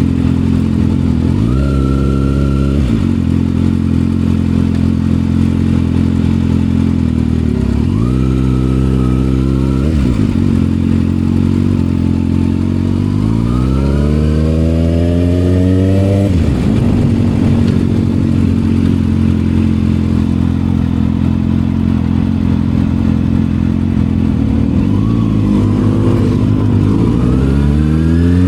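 Kawasaki ZX6R inline-four engine through an M4 aftermarket exhaust, running and revving: two short jumps in pitch early on, then a long rising pull that cuts off sharply about two-thirds through, and another rise near the end.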